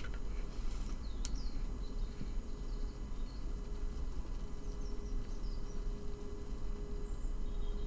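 Steady low background hum with a faint steady tone above it, and one light sharp click a little over a second in.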